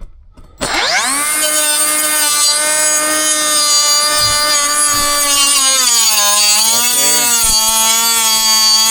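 A power saw starts about half a second in and runs steadily, cutting into the camper's water-damaged floor. Its pitch wavers and dips in the second half as the blade bites in.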